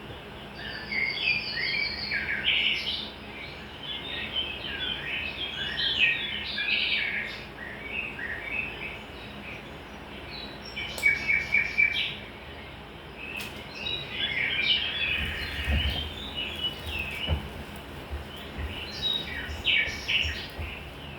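Birds chirping and singing in quick overlapping phrases, with a few low knocks about three-quarters of the way through.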